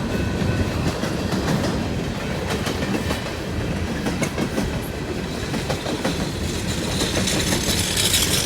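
Freight train cars rolling past close by, a steady rumble of wheels on rail with rattling and the clickety-clack of wheels over rail joints.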